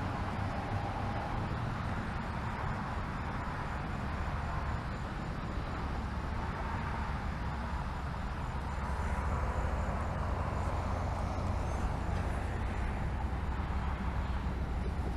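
Bicycle being ridden: steady wind rumble on the microphone with rolling tyre noise, and no sudden events.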